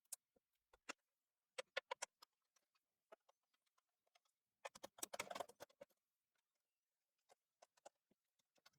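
Faint scattered clicks and taps of small parts and tools being handled during disassembly of a PlayStation 4 Slim, with a denser rattle about five seconds in.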